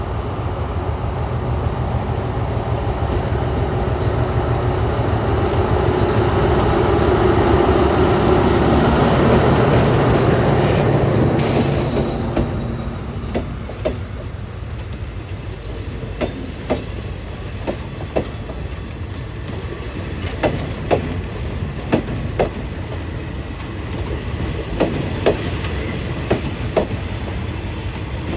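A diesel-hauled train passing: the locomotive's running noise swells and peaks about ten seconds in, with a short hiss near the peak. Then the cars roll by with a steady rumble and sharp clacks, often in pairs, as the wheels cross the rail joints.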